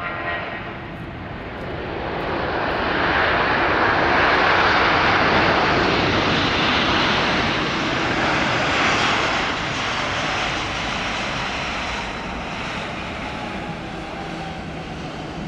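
Widebody jet airliner's engines passing close by: a loud roar that swells over the first few seconds, peaks about four to nine seconds in, then slowly fades before cutting off abruptly.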